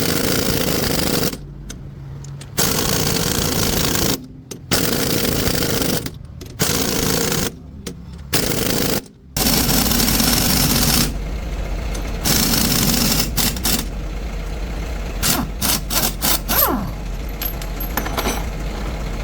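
Several bursts of a rattling power tool working on the truck, each a second or two long with short breaks. About nine seconds in they stop, leaving a steady low hum of a heavy truck's engine idling, with a few light clicks.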